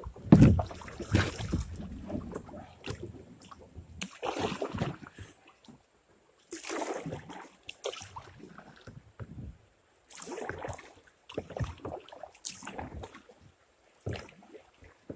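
Plastic kayak hull scraping and bumping over rocks in a shallow shoal, with a heavy thump at the start, then paddle strokes splashing and scraping every two to three seconds.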